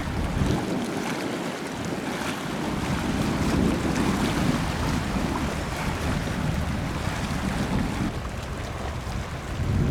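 Wind rumbling on the microphone, an uneven low noise that swells and eases over a steady outdoor hiss.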